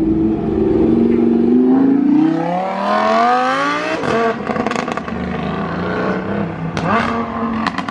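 Sports car with an aftermarket Ryft exhaust accelerating hard. The engine note climbs steadily, breaks at a gear change about halfway through, then rises again near the end into a string of sharp exhaust pops and crackles.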